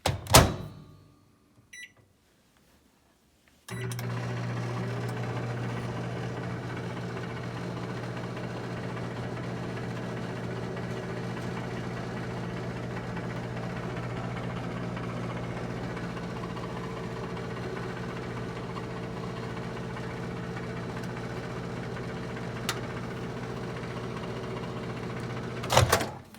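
Microwave oven: a loud thump, a couple of faint keypad beeps, then the oven runs with a steady, even hum for about twenty-two seconds before stopping with a loud clunk near the end.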